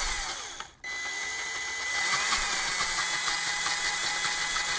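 Power drill running with a corn cob on its bit, a steady motor whine that cuts out briefly under a second in and then runs on evenly.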